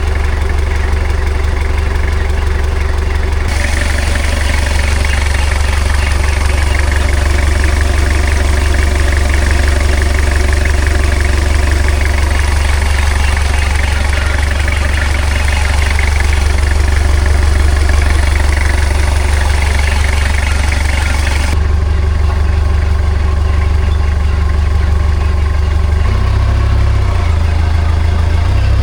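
Komatsu 30 forklift engine idling steadily. A strong rushing hiss joins it about three seconds in and cuts off about twenty seconds later.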